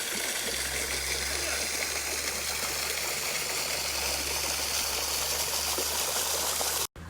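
Stream water flowing through a rocky wadi channel, a steady rushing. It cuts off abruptly near the end.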